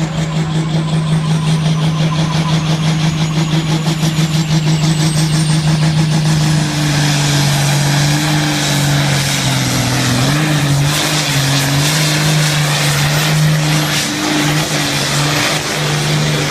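A turbocharged tractor diesel engine runs hard at high revs, with a thin high whine that rises over the first six seconds. About six seconds in, the engine note drops a little and then wavers up and down.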